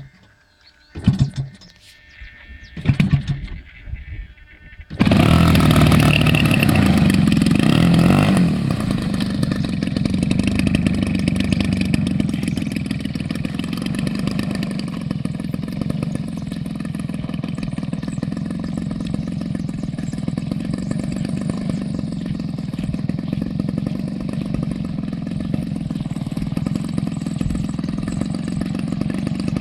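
A few short sounds, then about five seconds in an engine starts loud all at once and runs steadily with a fast, even pulse, easing slightly in level a few seconds later.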